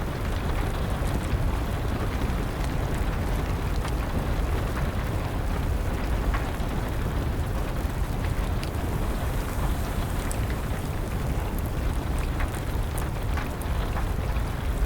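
Wood fire crackling, with scattered sharp pops over a steady hiss of rain and a low rumble.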